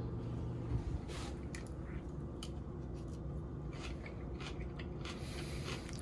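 Faint chewing of a mouthful of pico de gallo with the mouth closed, with soft scattered clicks and squishes.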